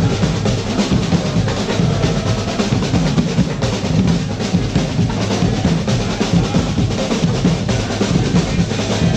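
Percussion music with drums playing a busy, unbroken rhythm.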